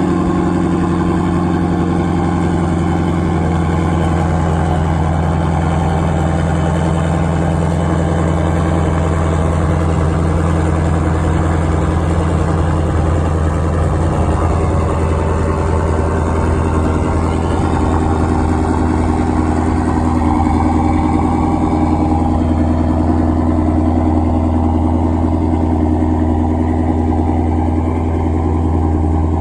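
2017 Shelby GT350R's 5.2-litre flat-plane-crank V8 idling steadily through its stock exhaust.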